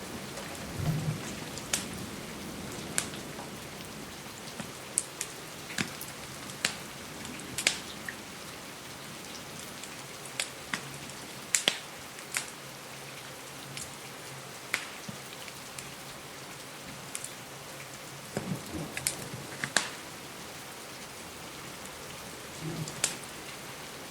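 Steady rain hissing, with irregular sharp pops and crackles from a wood fire in a fireplace, a few every several seconds.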